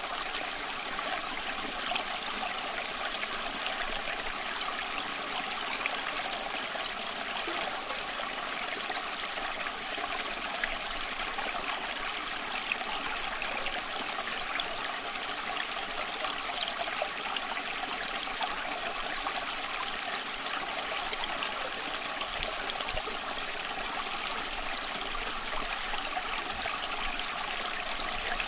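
Small stream flowing and trickling over stones in a steady, even babble.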